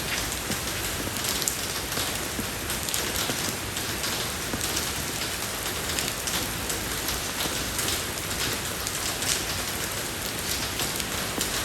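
Steady rain falling on a road surface, an even hiss with many individual drops ticking.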